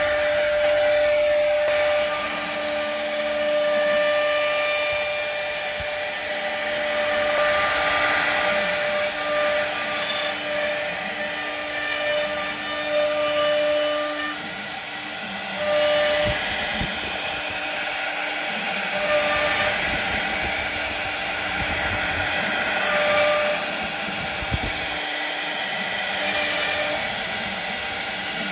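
CNC router spindle whining steadily while its bit cuts into wood, with a steady high hiss of cutting; the whine's tones drop in and out as the cut changes.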